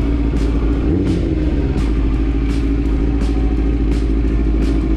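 Motorcycle engine running steadily while riding, with its pitch briefly rising and falling about a second in, under heavy low wind rumble on the microphone.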